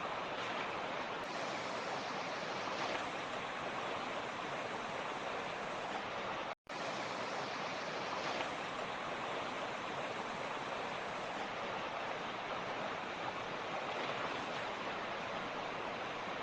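Mountain stream rushing steadily over rocks, an even wash of running water. A split-second dropout to silence about six and a half seconds in.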